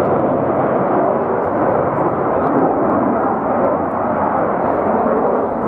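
Steady, loud aircraft engine noise.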